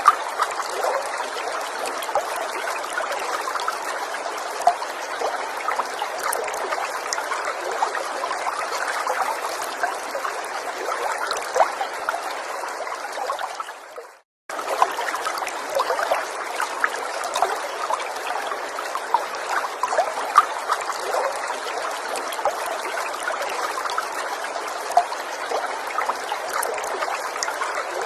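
Small forest stream trickling and burbling steadily, with many small splashes over the water's rush. About halfway through, the sound fades out for a split second and then comes straight back.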